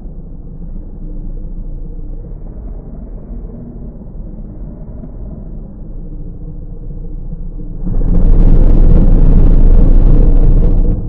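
Car wash machinery running with a steady low rumble, which jumps suddenly to a much louder rushing noise about eight seconds in and drops away near the end.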